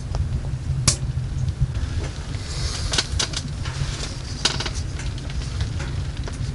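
Scattered light clicks and taps, a few of them sharper, over a steady low rumble.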